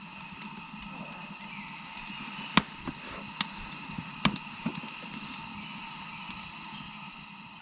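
Campfire crackling: a handful of sharp, irregular pops over a steady hiss.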